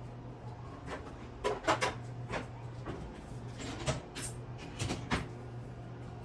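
Light knocks and clacks of kitchenware being handled, several close together about one and a half seconds in and again about four to five seconds in, over a steady low hum.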